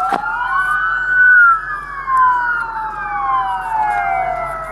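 Several police car sirens wailing at once, their slow rising and falling tones overlapping. A single sharp crack cuts through right at the start.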